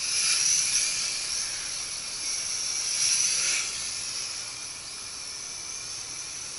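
Nihui U807 mini quadcopter flying on replacement WLtoys V636 motors: a high-pitched whine of motors and propellers that swells and fades. It is loudest near the start and again about three seconds in.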